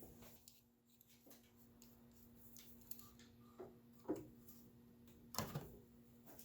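Faint, scattered clicks and knocks as the broken intake mount is worked out of its place in the engine bay, over a low steady hum; the strongest knock comes about five and a half seconds in.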